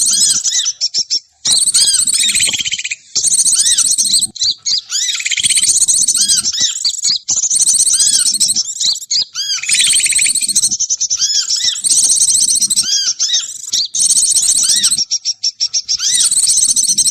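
A bird-luring (pikat) recording of many small birds calling together: rapid chirps, short arched calls and high trills, densely layered and repeating in a similar pattern every couple of seconds, played to draw wild birds down.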